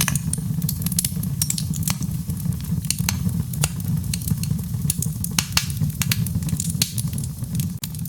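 Wood fire crackling: frequent sharp pops and snaps over a steady low rumble of the flames.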